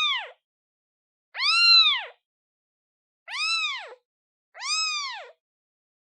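Newborn kitten, a day old, meowing to call its mother: three high, thin meows about a second and a half apart, each rising and then falling in pitch, after the tail of one more at the start.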